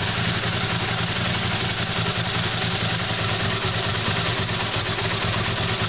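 Honda CX500 liquid-cooled V-twin idling slowly and steadily on freshly installed carburetors. It carries a light vibrating rattle, which the owner puts down to a new thermostat sitting with extra clearance in its housing.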